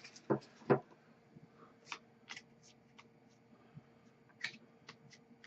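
Hockey trading cards being handled and slid across one another: soft clicks and brushing sounds, two a little louder in the first second, then lighter ones about every half second. A faint steady hum runs underneath.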